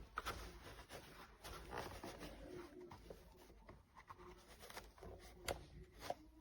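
Faint rustling and scratching of objects being handled, with two sharp clicks near the end.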